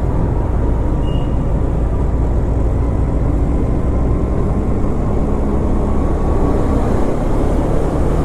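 KTM Duke 250's single-cylinder engine running at a steady cruise on the move, under constant wind and road noise.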